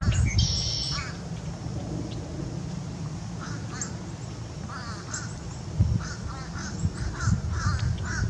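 Birds calling outdoors: a buzzy high call about half a second in, then a run of short repeated calls from about three and a half seconds on, over a steady low rumble.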